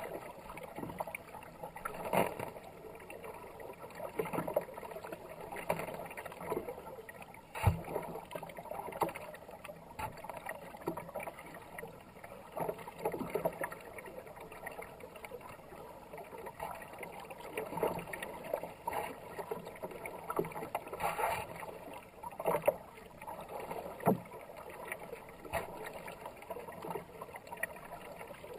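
Kayak paddle strokes splashing in fast river water, a splash every second or two over a steady rush of water, with one sharp knock about eight seconds in.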